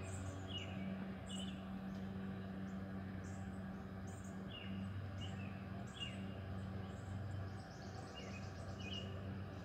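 Woodland birds chirping, with short, falling calls at irregular intervals and fainter high chirps between them, over a steady low hum.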